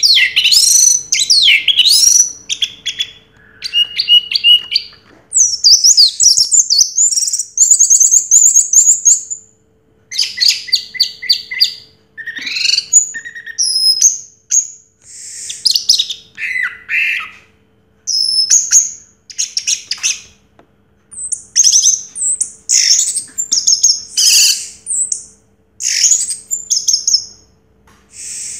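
Orange-headed thrush (anis merah) singing a loud, varied song of quick chirps, trills and slurred whistles, delivered in bursts of one to three seconds with short pauses between, over a faint steady hum.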